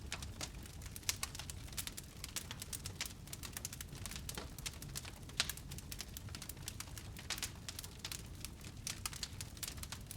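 Wood fire burning in a fireplace: a steady low rumble of flames with dense, irregular crackles and pops, one sharper pop about five seconds in.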